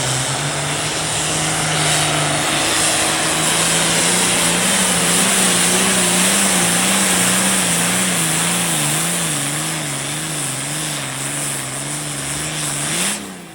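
Hot farm class pulling tractor's turbocharged diesel engine running flat out under the load of the sled, loud with a strong high turbo hiss. The engine's pitch wavers up and down in the second half, then the engine cuts off abruptly near the end as the pull ends.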